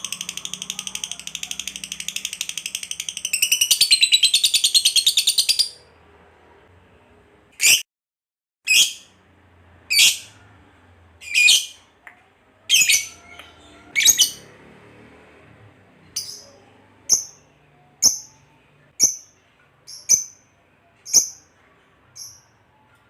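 A lovebird's long, rapid chattering trill ('ngekek panjang') that stops about six seconds in. After a short pause it gives a string of single sharp calls, about one a second, with the later ones shorter.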